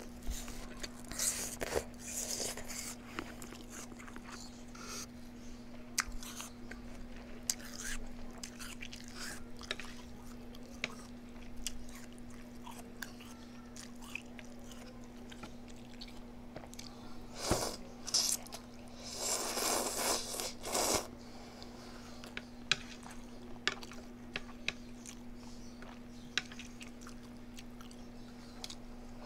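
A person chewing and biting food close to the microphone: scattered wet clicks and crunches, with a louder run of crunching about two-thirds of the way through. A faint steady hum runs underneath.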